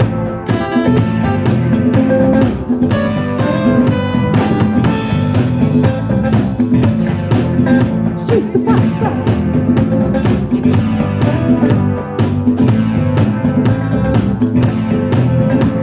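A band playing: a drum kit keeps a steady beat under guitar.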